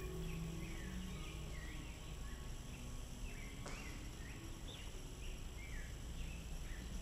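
Birds chirping in a quick run of short sweeping calls, over faint low held notes of background music that drop away after the first second and come back near the end. One sharp click sounds a little past halfway.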